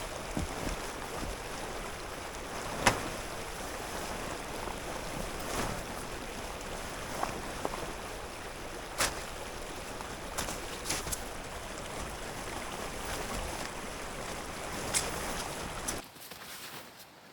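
Steady rushing of a flowing stream, with scattered sharp clicks and knocks over it, the loudest about three seconds in. The water sound cuts off abruptly near the end.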